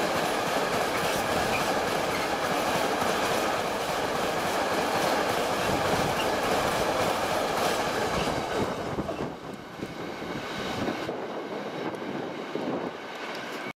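Freight train of empty stake wagons rolling past at speed, its wheels running loud on the rails. About eight seconds in, the last wagon goes by and the sound drops away and fades as the train recedes.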